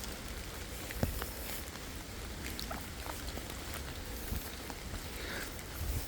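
Light rain pattering in woodland, with scattered irregular drops and ticks and one firmer knock about a second in.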